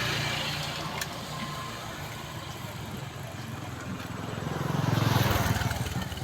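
Motor vehicles running past, their engines humming, with one passing close and loudest about five seconds in.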